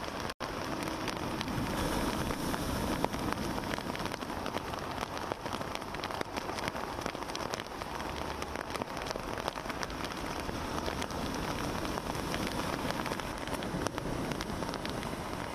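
Heavy rain falling, a dense hiss full of sharp drop hits, over the low wash of sea waves breaking against a rocky sea wall. The sound drops out for an instant near the start.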